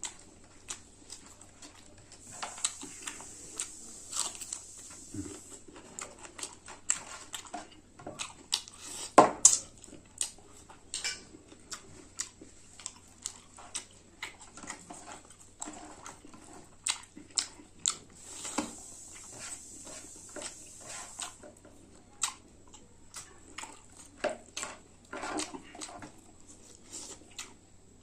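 Close-miked eating: chewing and wet mouth clicks of someone eating meat with rice, with irregular sharp clicks and clinks from the plate. The sharpest click comes about nine seconds in.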